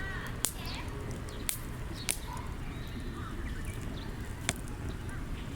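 Wood campfire burning: firewood crackling with four sharp pops spread irregularly over a steady low rush of the flames.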